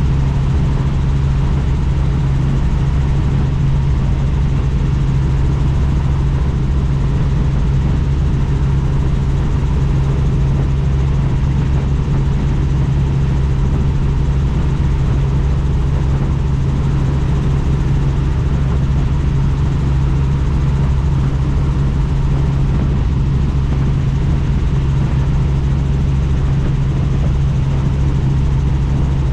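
Helicopter in flight: a loud, steady low drone of rotor and engine that does not change.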